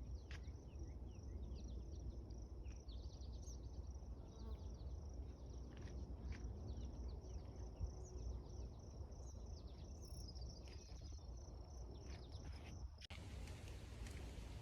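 Insects, crickets or katydids, chirping in a steady high pulsing rhythm, with scattered short bird chirps over a low wind rumble. The insect sound cuts off suddenly near the end.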